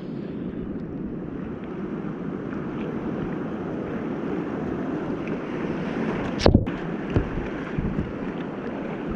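Steady rush of whitewater river rapids, with one sharp knock about six and a half seconds in and a fainter one just after.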